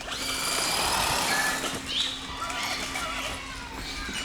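Several birds calling at once: overlapping high whistles and short chirps, some gliding up in pitch.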